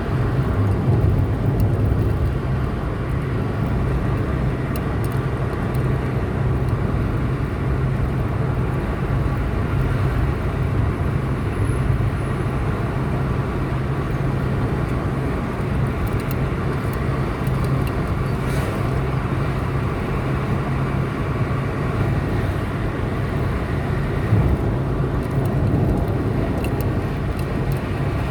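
Car driving at steady speed on a highway: a continuous low rumble of engine and tyre road noise.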